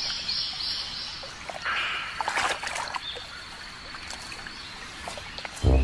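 Mudflat ambience: water trickling and splashing in short bursts, with bird chirps, a short run of four high chirps at the start, and a sudden low thud near the end.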